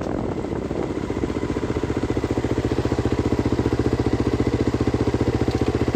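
Vehicle engine idling steadily with an even, rapid pulse, after wind and driving noise die away in the first second or so.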